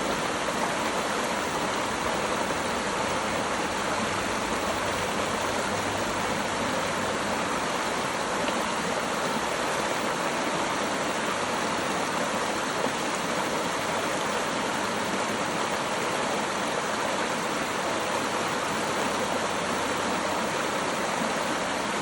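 Running water flowing steadily and evenly, with no separate splashes or breaks.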